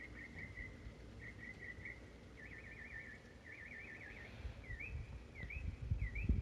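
A songbird singing: two quick trills, then two wavering warbled phrases, then a run of short upward-hooked notes about twice a second, over a faint steady background noise.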